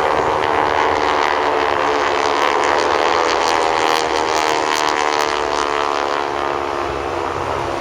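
Propeller aircraft flying overhead: the nine-cylinder Pratt & Whitney R-1340 radial engines of vintage SNJ trainers make a loud, steady drone.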